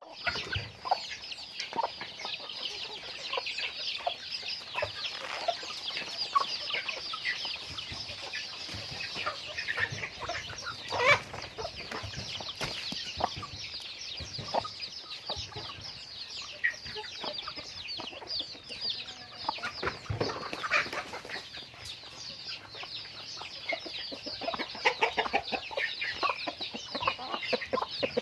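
Flock of backyard chickens clucking and calling, over a continuous dense chatter of short high-pitched calls, with a few louder calls standing out, the loudest about eleven seconds in.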